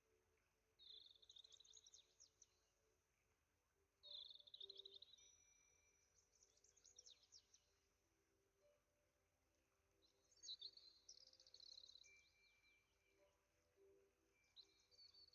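Faint songbirds singing in short, high, quick trilled phrases, about five of them separated by gaps of a second or two, over a quiet outdoor background.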